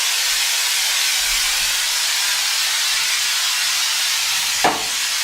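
Aerosol can of spray-on drywall texture hissing steadily as it sprays texture onto a wall. A brief sharp sound cuts through the hiss near the end.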